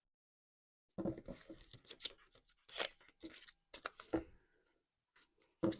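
Paper being handled on a craft table: a run of short rustles and light taps, then one more near the end.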